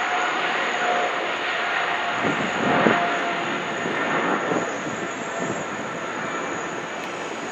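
Jet airliner engines: a loud, steady rush with a thin whine held beneath it, swelling to its loudest about three seconds in and then easing off.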